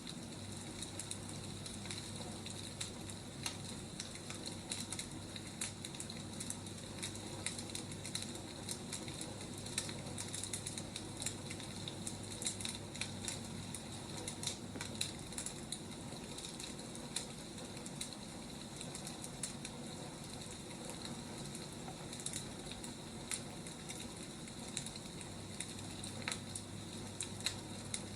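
Wood fire crackling: a steady hiss with irregular small pops and snaps.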